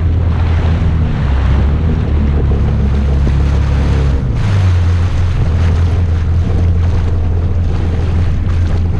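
Jet ski engine running under way, with wind and water spray noise over the microphone. The engine note drops about a second in and picks up again just after four seconds.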